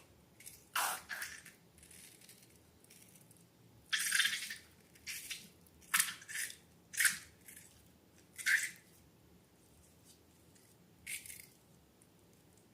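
Slime and balloons being handled: a series of about nine short, sharp squishy noises at irregular intervals, some in quick pairs.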